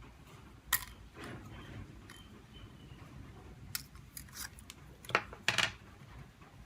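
Small tools and parts clicking and scraping against a smartphone during restoration work, in scattered short strokes. The loudest clicks come about five seconds in.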